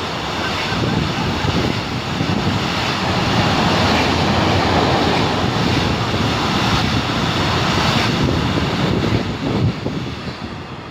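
A train running through a station, its rumble heavily mixed with wind buffeting the microphone; the noise eases off near the end.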